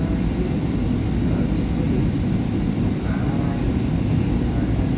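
SEPTA Market-Frankford Line subway car running between stations, heard from inside the car: a steady low rumble of the wheels on the rails and the car's running noise.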